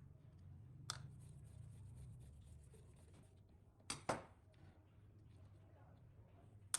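Faint handling and rubbing sounds over a low hum, with a few sharp clicks: one about a second in, two close together just past the middle, and one at the end.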